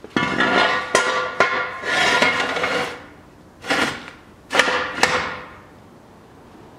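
A hammer striking metal, about six sharp blows that each leave the metal ringing, in a first run of strikes followed by a shorter pair about four and a half seconds in.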